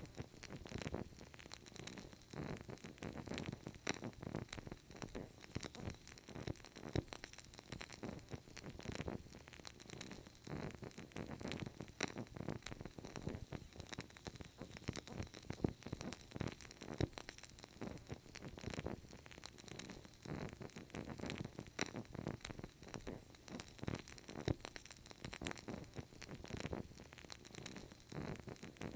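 Burning candle crackling: a steady run of small, irregular pops and ticks from the wick.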